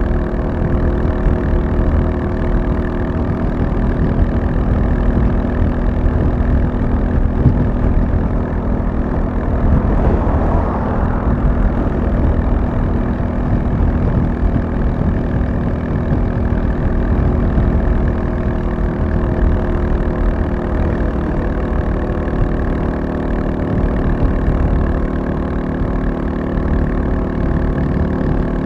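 Royal Enfield Classic 350's single-cylinder engine running at a steady engine speed. A brief rush of noise comes about ten seconds in.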